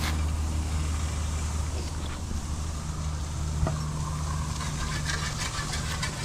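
An engine idling steadily, with one sharp click a little past halfway and a few fainter clicks near the end.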